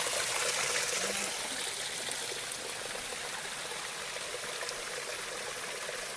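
Running water flowing and splashing steadily, a little softer after about two seconds.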